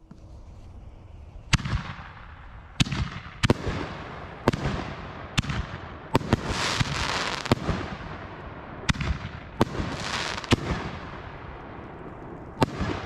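6-inch canister firework shells going off: about a dozen sharp, echoing bangs in irregular succession, with spells of crackling after some of the bursts.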